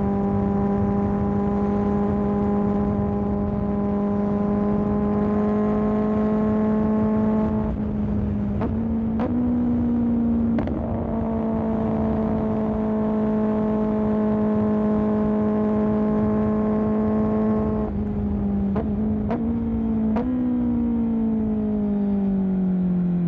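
Kawasaki ZX-10R inline-four through an M4 aftermarket exhaust, running at a steady, high engine speed. Its pitch steps briefly a few times with short breaks and clicks, then falls away over the last few seconds as the engine comes off the throttle.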